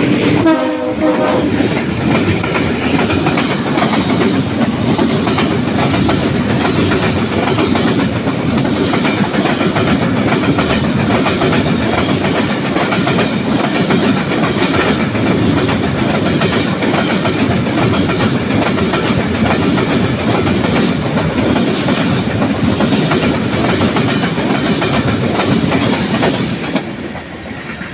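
A train rolling past at close range, its wheels clattering steadily over the rail joints. At the start, the tail of a horn blast falls in pitch and dies away. Near the end the rumble drops off as the train clears.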